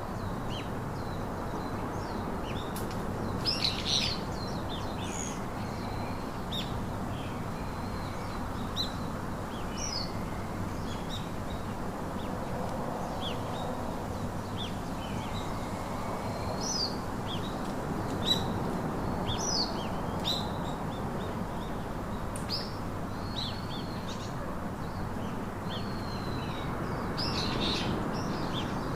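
Several wild birds chirping and calling: a steady scatter of short high chirps, whistles and sliding notes, over a constant low background rush.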